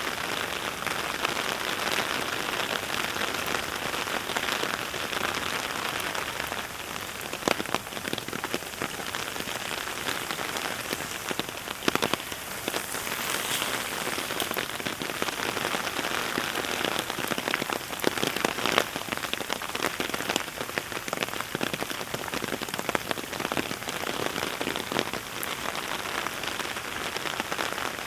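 Heavy rain falling steadily, heard binaurally, with scattered sharper drops and drips standing out now and then.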